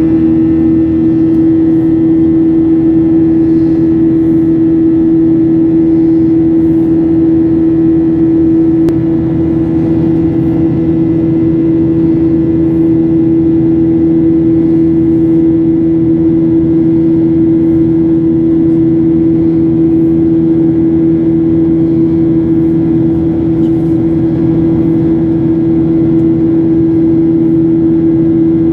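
Airliner jet engines running steadily: a constant loud drone with one strong held hum tone that does not change.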